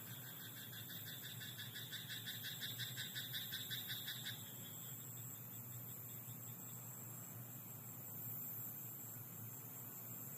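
A frog croaking in a rice paddy: a rapid, evenly pulsed call of about six pulses a second that runs for about four seconds and stops, over faint steady night ambience.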